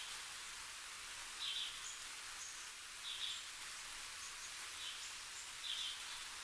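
A few short bird chirps, spaced one to two seconds apart, over a steady hiss.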